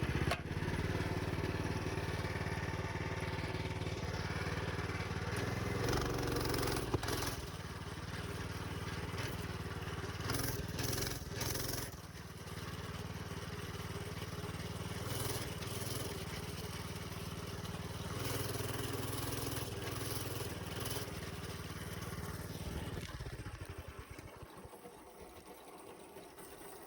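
Minibike engine running under throttle on a trail ride, with scattered knocks and rattles. It dies away about three seconds before the end as the engine cuts out, which the rider fears means it ran out of fuel.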